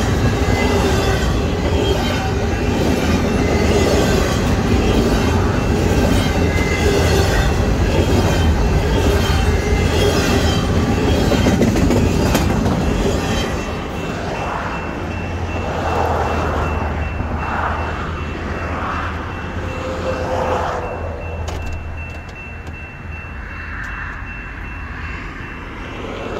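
Union Pacific intermodal freight train rolling past, its wheels running over the rails. The noise is loud and steady for about the first half, then fades away as the train moves off.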